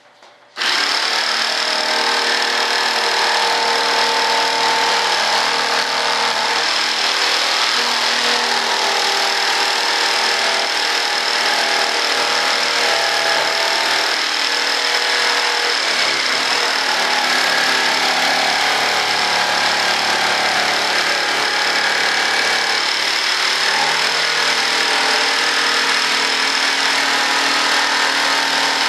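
Electric saw fitted with a laminate-cutting blade, starting up about half a second in and running steadily while cutting through a board. Its motor tone steps in pitch a few times.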